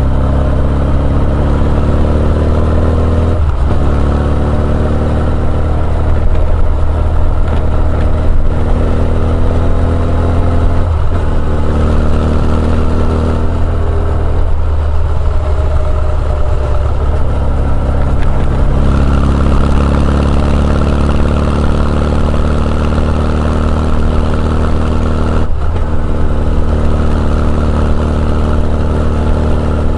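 Honda CB1100EX's air-cooled inline-four running through an R's Gear Wyvern Classic exhaust, heard from on the bike while riding. The engine note climbs in pitch and drops back at gear changes, about three times.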